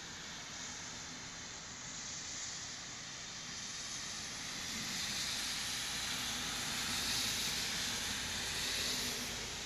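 Steady rain falling, an even hiss that grows a little louder past the middle and eases again near the end.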